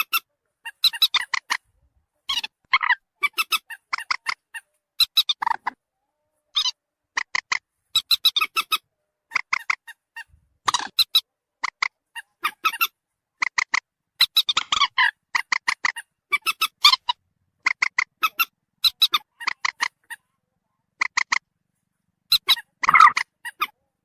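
Common moorhen (mandar batu) calls from a bird-trapping lure recording: quick bursts of short, sharp notes, about one burst a second, with dead silence between the bursts.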